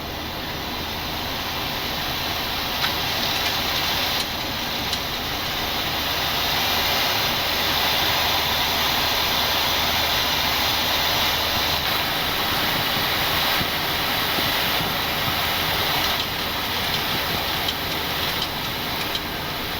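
Steady rushing air and engine noise on the flight deck of a Boeing 737-800 climbing after takeoff, swelling slightly over the first few seconds. A low hum underneath stops about twelve seconds in.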